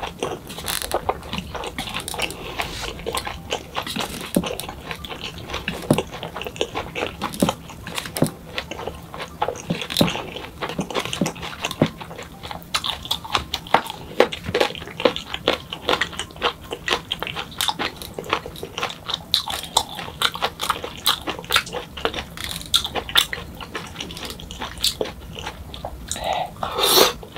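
Close-miked chewing of food: wet, irregular mouth clicks and smacks, with a louder mouth sound near the end as another mouthful is taken.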